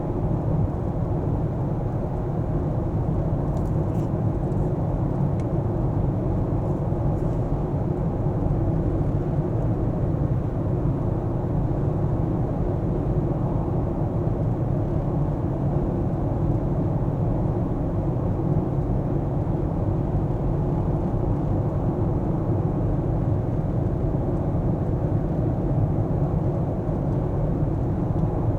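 Car driving at steady speed: an even low rumble of tyre and engine noise that stays level throughout.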